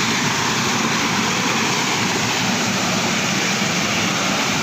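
Water of a small waterfall rushing, loud and steady and unchanging.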